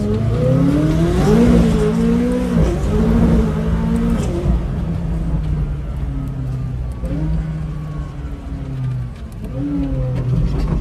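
Race car engine heard from inside the cabin, revving up under acceleration with its pitch climbing, then dropping sharply twice a couple of seconds apart, then running at lower, steadier revs with a couple of brief rises.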